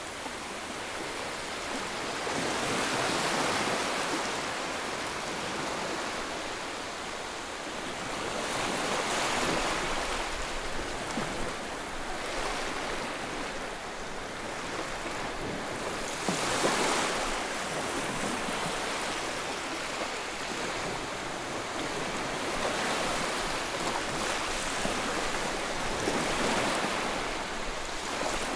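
Ocean waves breaking and washing on a shore, each swell rising and falling every few seconds, the loudest about halfway through.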